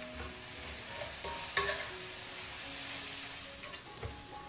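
Sliced onions and tomatoes sizzling as they sauté in a frying pan, with stirring and one sharp utensil clink about a second and a half in.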